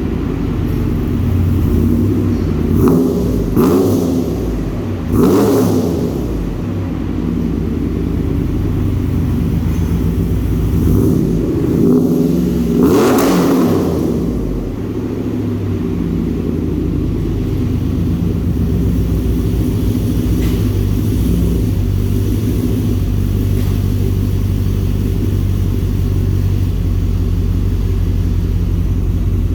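Trailblazer SS's LS2 V8, breathing through longtube headers with no catalytic converters and an aftermarket muffler, blipped in three quick revs, then revved once more for longer a little before halfway. It then settles into a steady idle.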